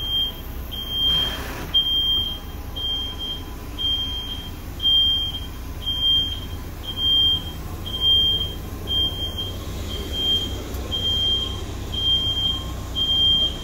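Electronic warning beeper sounding about once a second, one high steady-pitched beep each time, over a steady low rumble.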